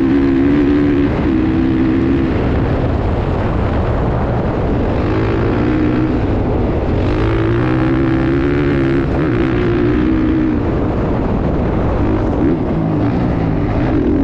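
Motocross dirt bike engines running hard, their note rising and falling and fading in and out over a constant loud rumble.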